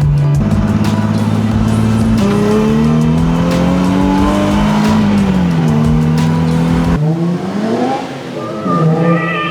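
2008 Nissan 350Z's 3.5-litre V6 engine driving under load, its pitch climbing steadily and then dropping back at gear changes; near the end the pitch swings up and down quickly as the revs rise and fall.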